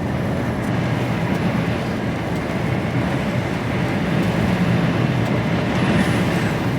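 HGV container lorry running steadily on the road: a low engine drone with road noise.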